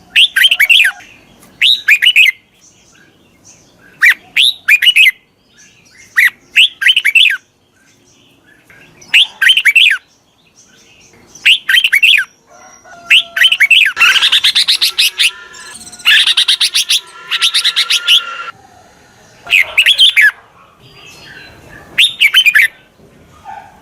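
Red-whiskered bulbuls calling: short, quick phrases of bright chirping notes repeated every second or two, with two longer, denser bursts of harsh chattering in the middle.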